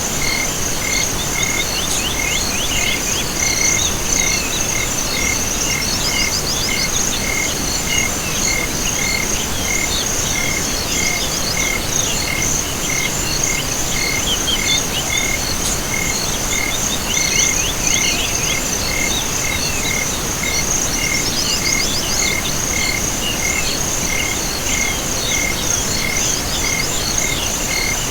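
Night chorus of insects and frogs. A steady high trill runs over a regular chirp repeating at an even pace, and bursts of quick sweeping calls come and go every few seconds, all over a constant hiss.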